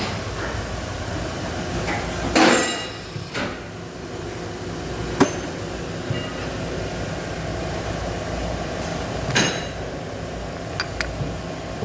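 Metal struck against metal during dynamo repair work: about six sharp knocks and clinks, the loudest two ringing briefly, over a steady hum.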